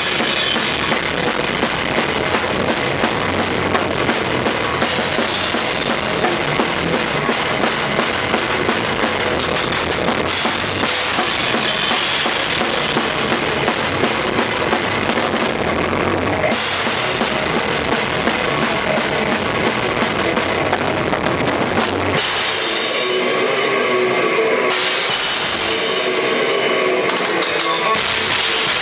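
Metal-style drumming on a Tama Starclassic drum kit with Paiste cymbals: kick drum under a constant wash of cymbals. About three-quarters of the way through, the kick drops back and pitched, ringing tones come forward.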